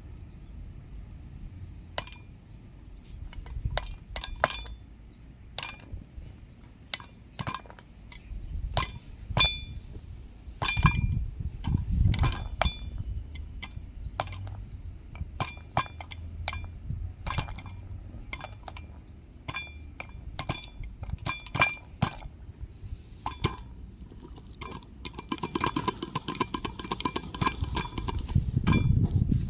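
Popcorn kernels popping in a metal pot over a small fire: irregular sharp pops, each with a light metallic ring, coming thick and fast near the end.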